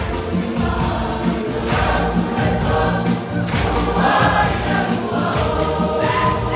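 A church choir singing, many voices together over sustained low notes.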